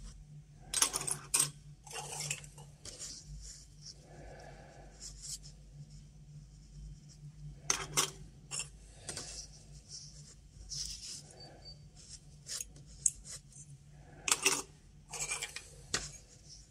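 Small metal objects being handled on a hard surface: irregular clinks and short scrapes, loudest about a second in, near eight seconds and near fourteen and a half seconds, over a faint steady low hum.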